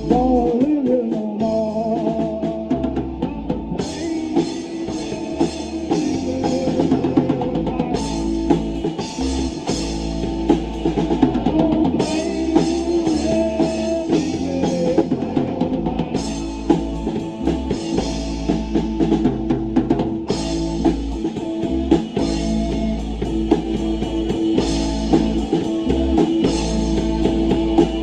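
A rock band playing live: drum kit with bass drum and cymbals, guitar and bass, with some singing.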